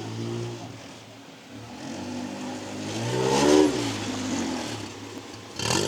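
A car engine running and then revving as the car accelerates. Its pitch rises to its loudest point about three and a half seconds in, then falls away, and a short sharp burst of sound comes near the end.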